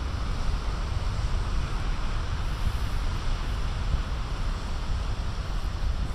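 Big ocean waves breaking on a beach, a steady wash of surf noise, with wind rumbling on the microphone.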